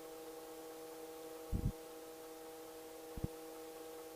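Faint steady electrical hum and hiss on the headset intercom audio feed, with two brief low thumps about a second and a half and three seconds in.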